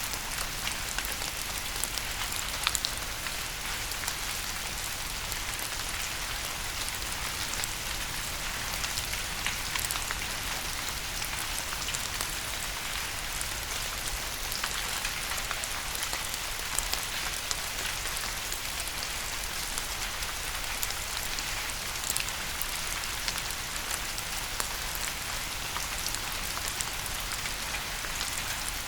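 Steady rain falling on a surface, a dense even patter of drops with scattered sharper drip ticks.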